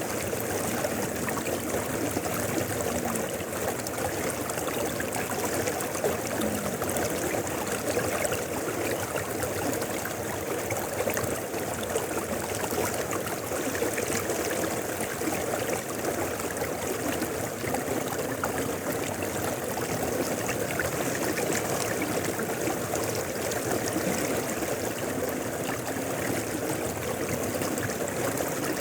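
Mountain river flowing over rocks: a steady rush of water with fine trickling and gurgling detail.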